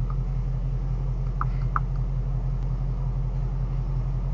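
Shelby GT350's 5.2-litre flat-plane-crank V8 running with a steady low rumble. Two short high beeps come about a second and a half in.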